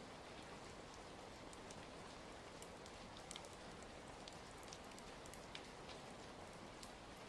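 Faint steady rain: an even hiss with scattered light ticks.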